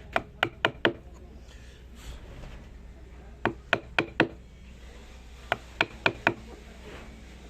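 Sharp knocks of a tool striking wood, in three quick runs of four blows each, with pauses between the runs.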